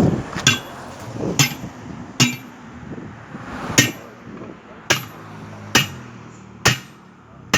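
Eight hammer blows struck on a truck tyre and its steel rim while the tyre is being fitted, each a sharp metallic whack roughly a second apart, with a short pause after the third.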